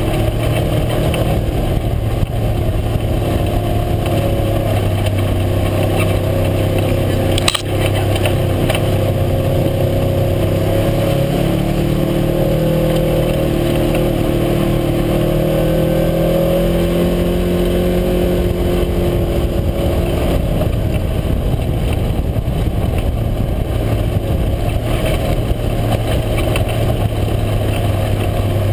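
UTV engine running under way, its pitch rising and falling with the throttle. A single sharp knock comes about seven seconds in.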